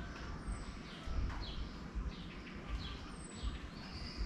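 Small birds chirping in short, high notes that fall in pitch, over the low thud of footsteps at a steady walking pace.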